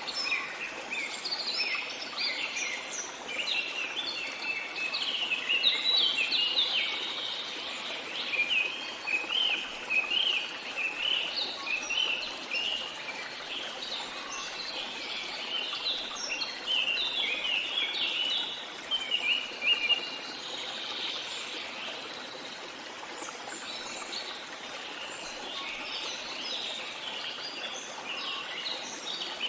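Songbirds chirping in a busy, overlapping chorus of short high notes over a steady hiss of running water. A little past the middle the chirps thin out for a few seconds, then pick up again near the end.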